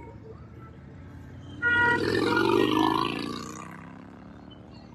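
A short horn beep and then a motor vehicle passing close by, its engine revving loudly for about two seconds before fading away.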